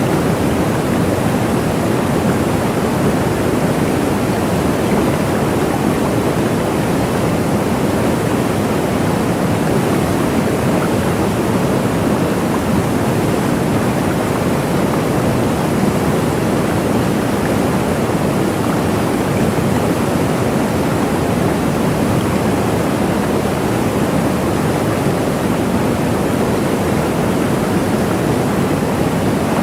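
Waterfall rushing in a steady, even roar of falling water, with no breaks or changes.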